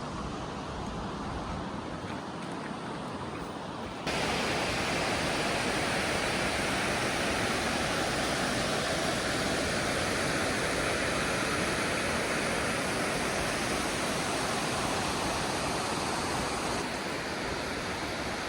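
Steady rushing roar of a large waterfall, even noise throughout; it jumps abruptly louder about four seconds in and eases a little near the end.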